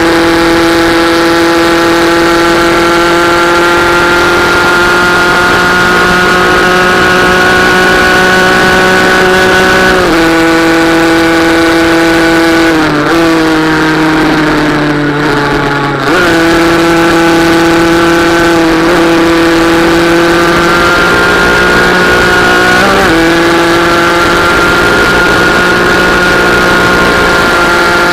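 Small racing motorcycle engine held at high revs, its pitch climbing slowly between short drops. It falls and stays lower for a few seconds near the middle before climbing again.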